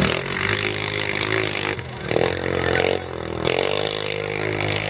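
Quad bike engines running and revving, with the pitch rising briefly about two seconds in and again around three and a half seconds.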